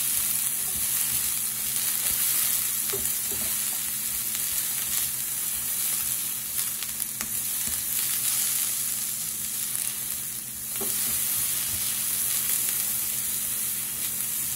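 Sliced yellow bell peppers sizzling in a hot pan, with a steady frying hiss. They are stirred with heat-resistant rubber tongs, with a few light clicks of the tongs against the pan.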